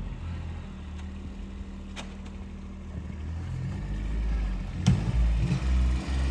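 Tractor engine running steadily at low speed, growing louder about four seconds in, with a sharp knock near the end.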